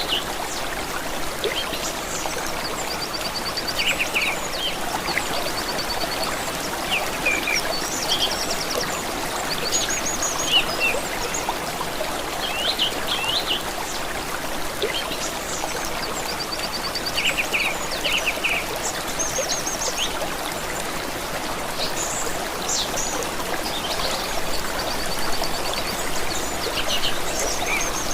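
A stream trickling and running steadily over stones, with small songbirds chirping and trilling repeatedly over it.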